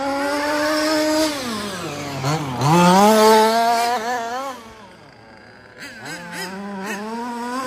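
The two-stroke petrol engine of a 1/5-scale RC car, revving up and down with a high buzzing pitch. It eases off about two and a half seconds in, revs hardest around three seconds, drops back near five seconds, then picks up again.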